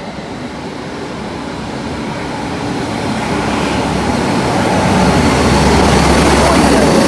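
A train running through the station, its noise building steadily and then holding loud, with a low steady hum from about five seconds in.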